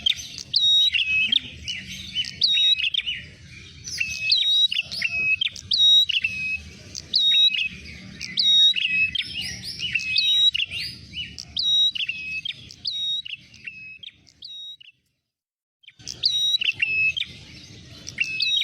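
Prenjak merah lure recording: rapid, loud, repeated sharp chirping calls that break off about fifteen seconds in, stop for about a second, then start again.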